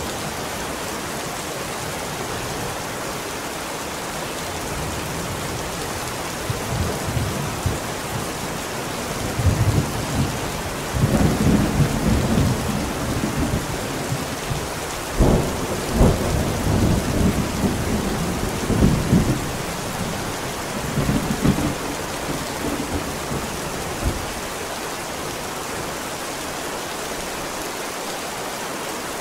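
Steady heavy rain hissing, with a long peal of thunder building about ten seconds in, crackling and rumbling for about ten seconds and dying away, leaving rain alone.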